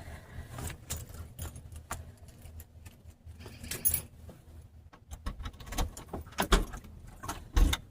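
Keys on a keychain jangling and clicking in irregular rattles, with a few dull knocks in the second half.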